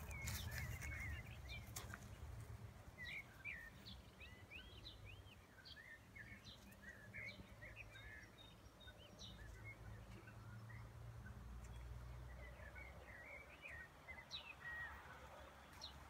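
Faint small birds chirping and twittering in many short rising and falling notes over a low steady rumble, with a few soft clicks.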